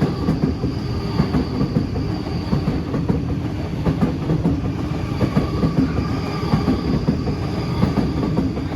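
Sydney Trains Waratah A-set electric train passing through the station, with a dense clatter of wheels over the rail joints and two faint, high, steady tones above it.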